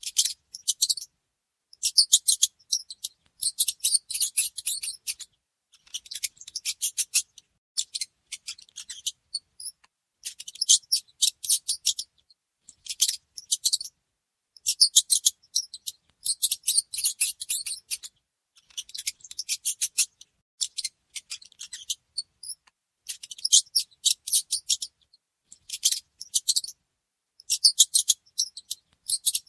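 Mice squeaking: rapid, very high-pitched chittering squeaks in short bursts every second or two, with silent gaps between.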